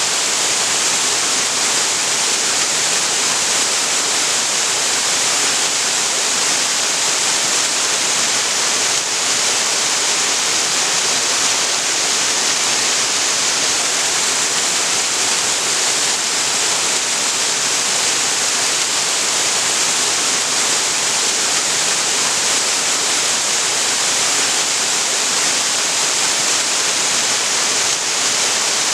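Waterfall pouring steadily into a creek: a constant, even rush of water with a strong hiss in the high end.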